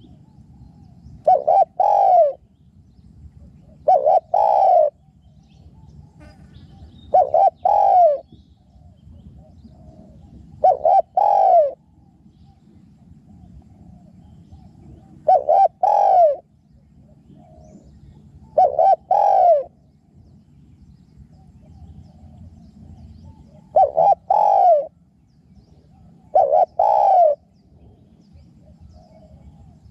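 Spotted dove cooing: eight short phrases of two quick coos each, repeated every three to five seconds.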